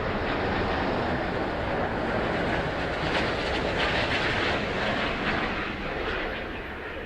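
Jet airliner passing on its landing approach: a steady rushing engine noise that fades over the last second or so.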